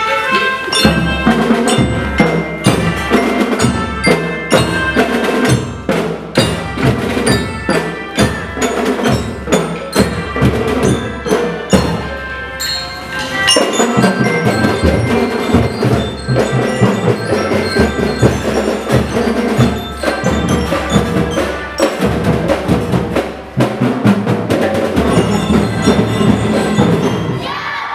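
A school drum band playing a tune: a bell-lyra melody over a steady beat of snare and bass drums.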